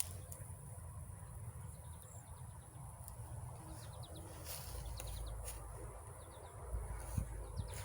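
Faint bird chirping: a few short series of quick, high chirps, over a low steady rumble.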